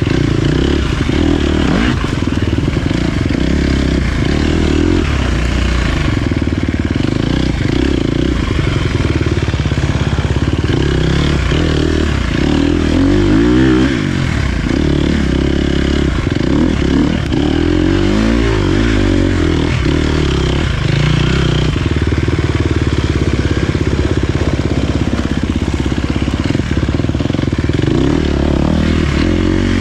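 Dirt bike engine running hard on a trail ride, its pitch rising and falling as the rider works the throttle, with a couple of sharper revs in the middle.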